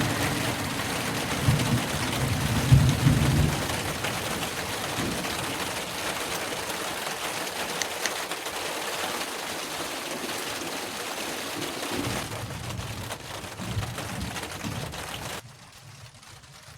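Steady heavy rain falling, with low rumbles of thunder in the first few seconds and again near the end. The rain cuts off abruptly about fifteen seconds in, leaving only a faint low rumble.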